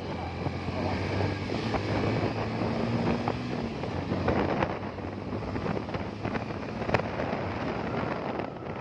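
Motorcycle engine running while riding, with wind buffeting the microphone. A sharp click about seven seconds in.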